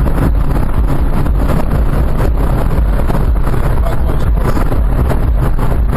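Loud, steady noise of a moving vehicle, heavy in the bass, with wind buffeting the microphone.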